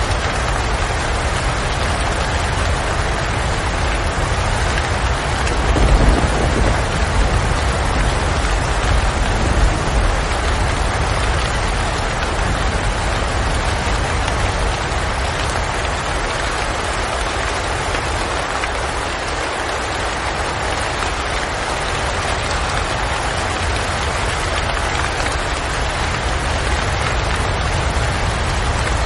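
Steady rain, an even hiss of many drops, with a brief low rumble swelling up about six seconds in.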